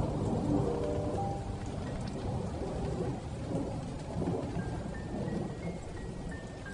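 Heavy rain with a long rolling rumble of thunder, loudest about half a second in. Soft melodic notes sound faintly over it, higher ones in the second half.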